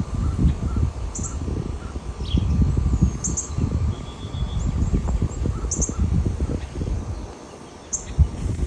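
Wild birds giving short, high chirps every second or two, with one lower call among them. Under them runs a louder, irregular low rumble of wind buffeting the microphone.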